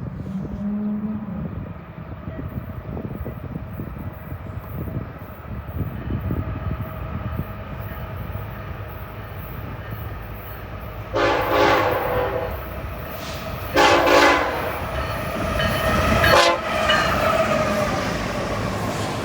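CPKC train's diesel locomotive passing at speed, its rumble and wheel noise growing, with the air horn sounding a long blast a little past halfway, then shorter blasts.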